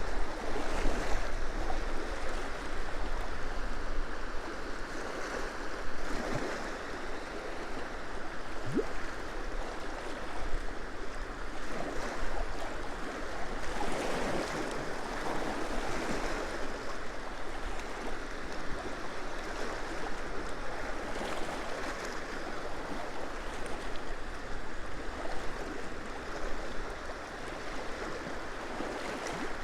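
Small waves of a freshwater loch lapping and washing against the shore in repeated swells, with wind rumbling on the microphone underneath.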